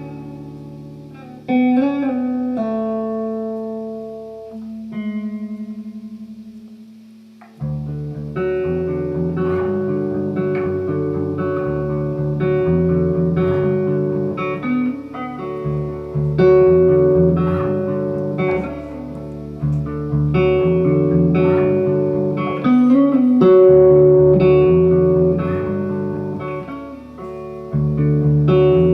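Instrumental break of a rock band playing live: electric guitar alone with a few held, ringing notes, one of them wavering, then the rest of the band comes in about seven and a half seconds in, with a bass line under repeated picked guitar notes.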